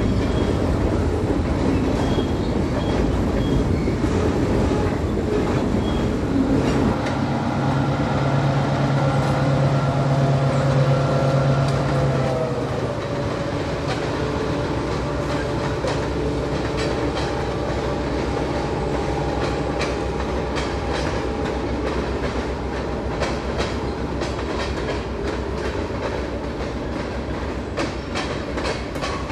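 Freight train on a branch line led by an EMD GP10 diesel locomotive: a steady diesel rumble whose tones drop in pitch about twelve seconds in, then a quicker, clicking clatter of wheels over rail joints.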